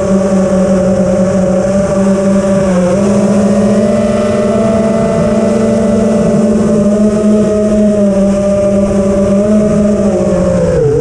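A motor's steady pitched hum that dips briefly in pitch about three seconds in and again near the end.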